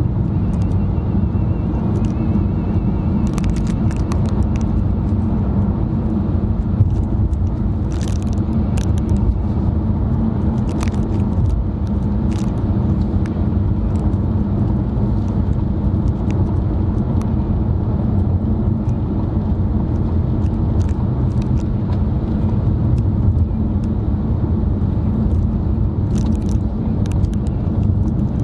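Car cabin noise while driving: a steady low rumble of engine and tyres on the road, with a few faint clicks scattered through it.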